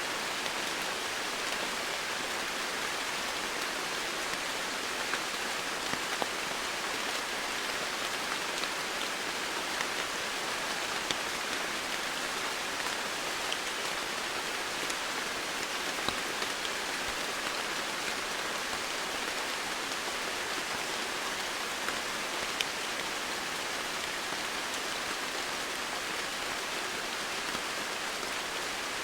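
Steady rain falling, with individual drops ticking on surfaces here and there.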